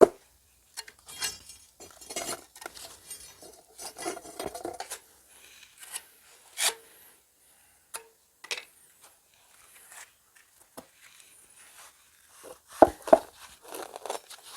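Clinks, scrapes and knocks of hand work on fireclay bricks as mastic is spread on them and the bricks are handled, with a sharp knock at the start and two louder knocks near the end.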